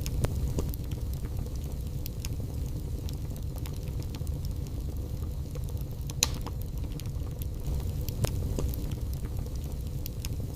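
Wood fire burning in a fireplace: a steady low rumble of flames with scattered crackles and pops, the sharpest about six seconds in and another about eight seconds in.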